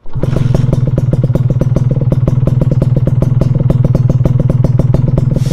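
Motorcycle engine running at a steady speed, an even, rapid pulsing exhaust beat that starts abruptly and holds without revving up or down.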